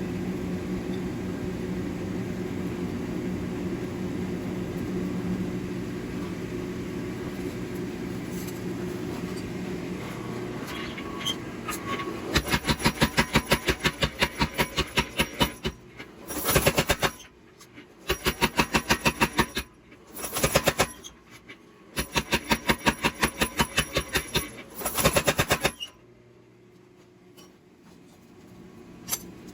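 A steady machine hum, then, from a little under halfway in, a mechanical power hammer striking hot steel in six runs of rapid blows, about six a second, each run a second or a few seconds long. The blows stop about three seconds before the end.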